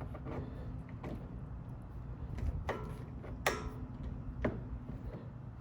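A screwdriver clicking and scraping against a front brake caliper and pad as it is worked into the gap to push the pistons back. There are a handful of sharp metal clicks, the loudest about three and a half seconds in.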